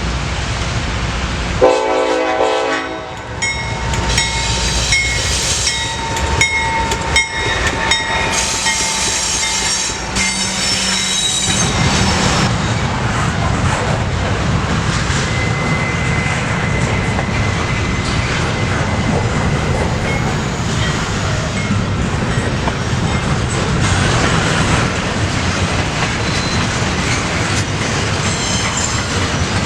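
Freight train locomotive sounding one short horn blast about two seconds in, then the train rolling past with wheels clacking on the rail joints. High-pitched wheel squeal comes through for several seconds early on the pass.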